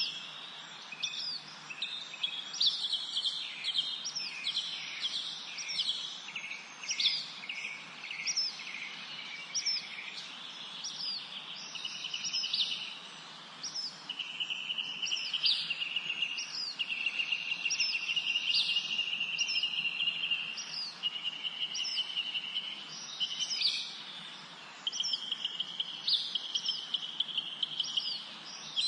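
Several songbirds singing in a spring forest chorus. One repeats a short, high, down-slurred note about once a second, while others give rapid trills that run for several seconds at a time, mostly in the second half.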